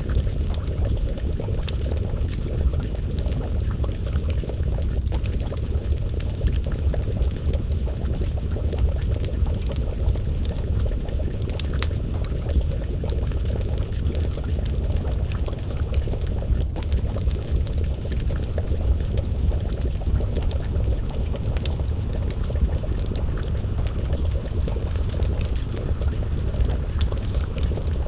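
Crackling wood fire with scattered sharp pops and snaps over a steady low rumble, and a pot of stew bubbling as it simmers over the flames.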